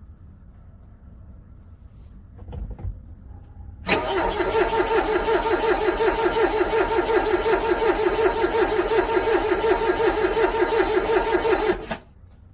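Car engine cold-cranking on the starter motor, a fast, even pulsing churn that goes on for about eight seconds without the engine catching, then cuts off abruptly.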